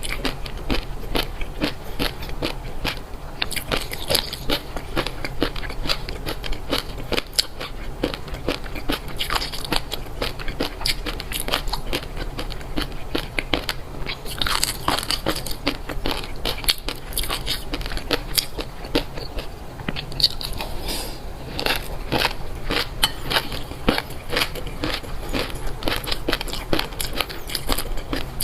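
A person eating crunchy food close to the microphone: rapid, irregular crisp crunches and crackles of biting and chewing, with no pause.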